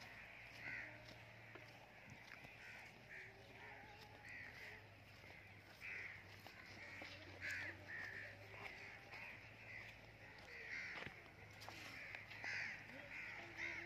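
Faint, short bird calls repeating about once a second, harsh and caw-like, over a low steady hum.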